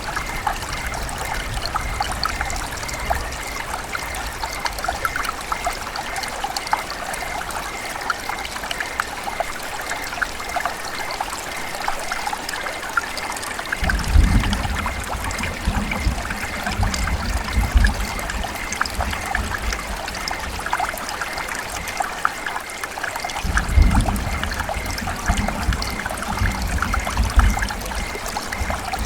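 River water running and trickling steadily, with a constant splashy burble. Twice, about halfway through and again near the end, a low rumble swells under it for a few seconds.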